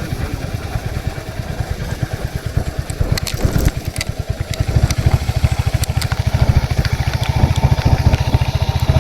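Royal Enfield Hunter 350's single-cylinder engine idling with a rapid, even low thud, which grows louder about halfway through. A few sharp clicks are heard around the middle.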